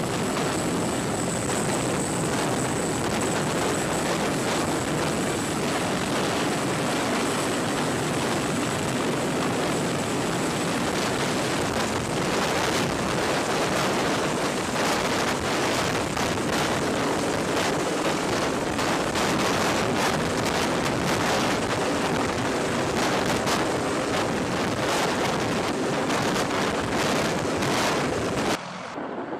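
Helicopter running close by: dense, steady rotor and engine noise with no narration over it. It cuts off abruptly near the end.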